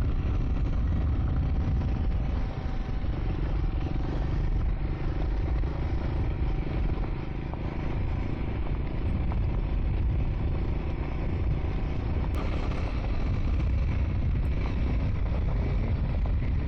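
Triumph Scrambler 400 X single-cylinder motorcycle running steadily while being ridden, with a dense low rumble underneath.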